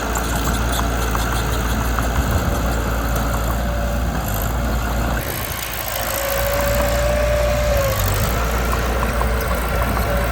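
Mitsubishi BD2 bulldozer's diesel engine running steadily, with light clicks over it and a thin steady whine for about two seconds a little past the middle.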